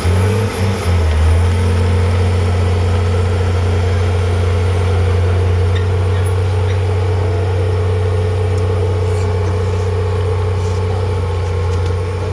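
Heavy construction machine's engine running steadily and loudly close by, its note settling about a second in.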